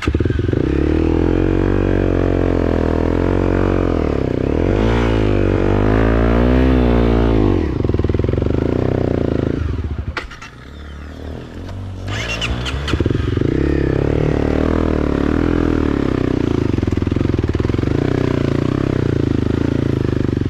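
Motorcycle engine running loud and revving, its pitch rising and falling repeatedly about five to seven seconds in. It drops off around ten seconds in, then picks up again a couple of seconds later and runs on steadily.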